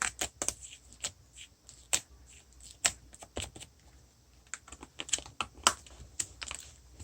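Glossy slime being handled, giving irregular sharp clicks and pops in quick clusters as air pockets burst.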